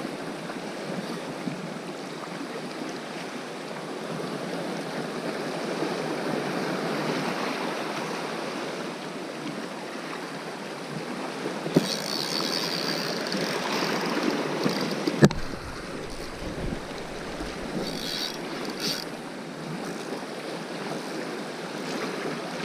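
Sea waves washing steadily on a rocky shore. A faint click about halfway through and a sharper knock a few seconds later, followed by a brief low rumble of wind on the microphone.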